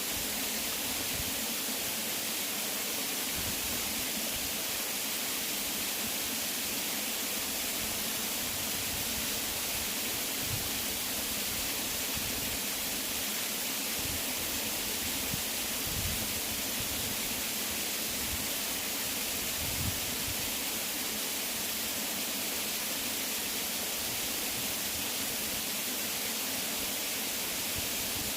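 Waterfall: water falling and splashing in a steady, unbroken rush, heaviest in the hiss of the spray, with a few faint low thumps along the way.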